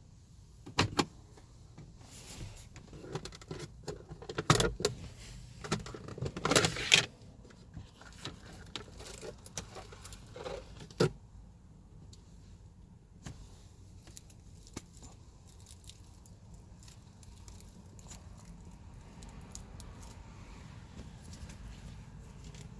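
Plastic clicks, knocks and rattles of the glove box and cabin air filter housing being handled, with the loudest knocks about four and a half and seven seconds in. The sounds thin out to a few clicks after about eleven seconds, leaving a faint low hum.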